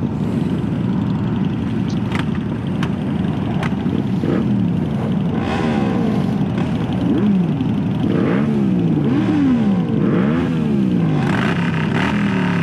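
Loud motorcycle engines running, then several of them revving up and down over and over from about four seconds in, the overlapping revs rising and falling in pitch.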